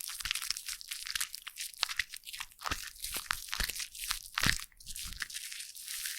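Close-miked foam crackling as it is squished and handled: a dense, fizzy run of tiny pops, with a few heavier squishes, the strongest about four and a half seconds in.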